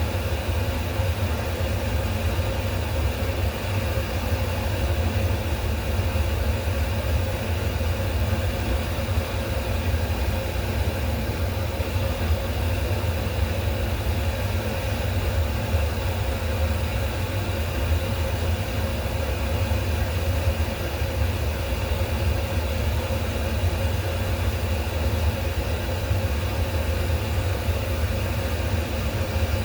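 A steady, unchanging low machine hum with a hiss over it.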